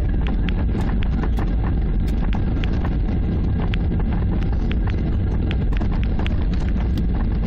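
Cabin noise of a Boeing 737-800 rolling on the ground after landing: a steady low rumble of wheels and engines, with frequent small irregular clicks and rattles from the cabin fittings.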